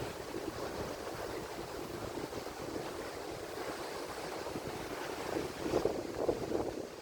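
Ocean surf: waves breaking and washing in a steady rushing noise, swelling louder near the end as another wave comes in.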